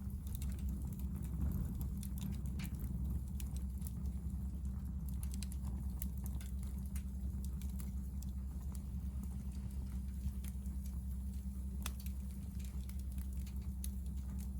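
Hardwood firewood burning in a Picogrill fire pit, crackling with irregular small pops and snaps over a steady low rumble.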